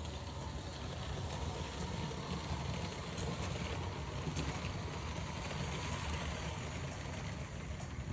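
Märklin HO model train running along the track, a steady low rumbling hum with light ticks.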